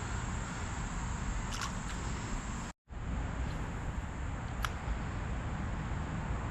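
Steady insect chorus, a thin high-pitched buzz, over a low rushing background. The sound cuts out completely for a moment a little under three seconds in.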